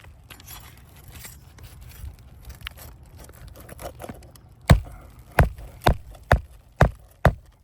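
A magnetic roofing hammer drives a nail through a shingle into the roof deck with about six sharp blows, roughly two a second, starting a little past halfway. Before that come soft scraping and rustling as the shingle and nail are set in place.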